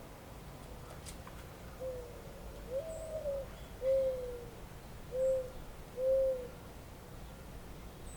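A bird giving one phrase of about five low, hollow hooting coos, the second note longest and highest and the last two short, over a steady low background rumble.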